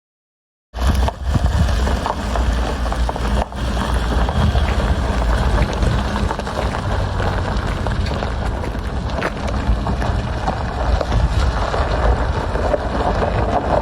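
2014 Ford F-150 pickup's engine running steadily with a low, even hum, cutting in abruptly about a second in.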